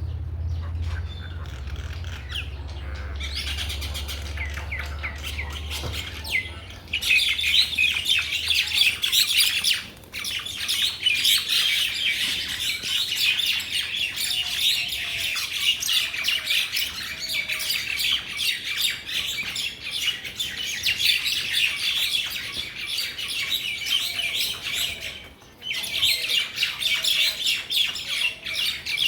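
Mynas chattering in a dense, continuous stream of calls, which thins briefly about ten seconds in and again near the end. A low rumble lies under fainter calling for the first several seconds.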